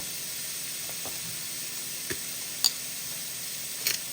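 Beef searing in butter in a pot, with a steady sizzle. A few sharp clicks sound over it in the second half.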